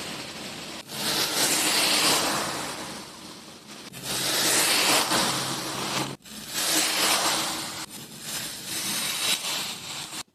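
Kinetic sand being worked, a gritty hissing rush that swells and fades in several separate passes, each cut off abruptly.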